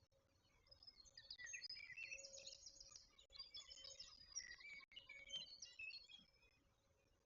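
Faint chirping and calling of several birds, a dense run of short high notes lasting about five seconds, over a steady faint hum.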